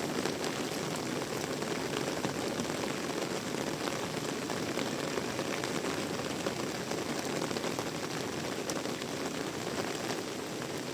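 Heavy rain falling steadily: a dense, even wash of rain with fine drop ticks throughout.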